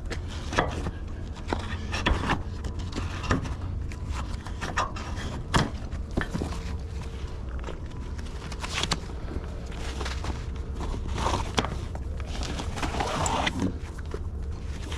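Scattered knocks, rustles and steps from hands working shock cord loose on a tarped flatbed load, over a steady low rumble.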